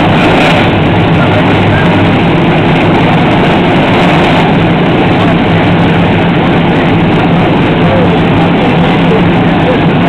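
NASCAR stock car V8 engines running steadily at a loud idle, with no revving.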